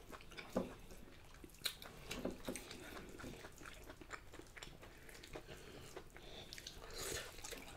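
Faint, close chewing and mouth sounds of people eating duck curry and rice by hand: scattered small smacks and clicks, with a few slightly louder ones in the first few seconds.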